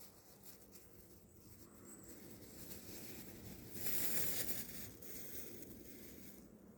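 Close rustling and crinkling, swelling to its loudest about four seconds in, then easing off.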